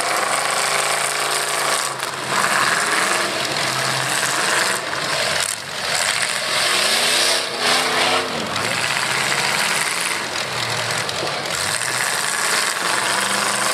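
Demolition-derby pickup truck engines running loud and rough, revving up and down several times, with a few short knocks and bangs.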